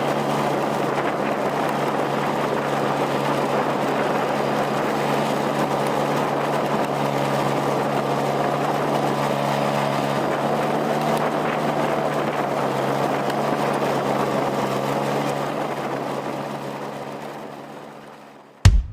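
A motor vehicle engine running steadily with a constant low hum, fading out near the end.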